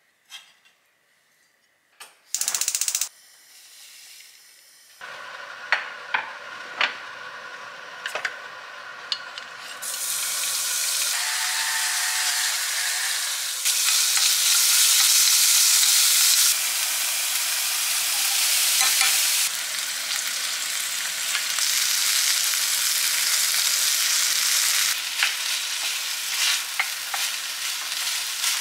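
Diced pork neck sizzling as it fries in a nonstick pan, with chopsticks and then a wooden spoon clicking and scraping against the pan as the pork and kimchi fried rice are stir-fried. The sizzle starts a few seconds in, grows much louder about ten seconds in, and changes loudness abruptly several times.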